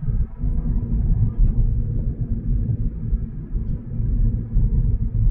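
Car driving along a road, heard from inside the cabin: a continuous low rumble of engine and road noise that rises and falls unevenly.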